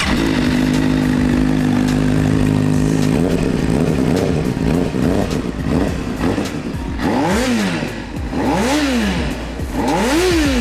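2008 Honda CBR600RR's inline-four engine running steadily just after being cranked up, then revved three times near the end, each rev rising and falling in pitch.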